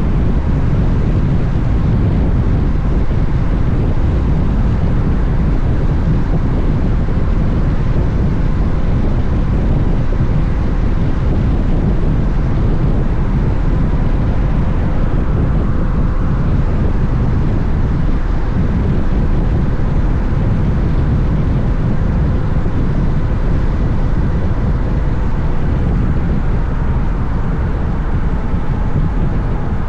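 Wind rushing over the camera microphone while riding a Honda X-ADV at road speed, a steady loud rush with the scooter's parallel-twin engine humming faintly underneath.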